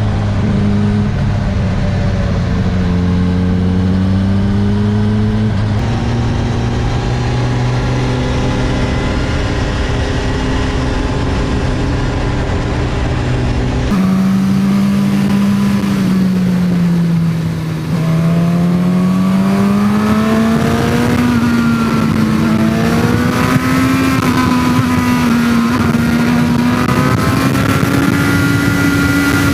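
Suzuki GSX-S1000's inline-four engine running through its stock exhaust. The engine note holds fairly steady at first, changes abruptly about halfway through, then dips and climbs again as the revs rise.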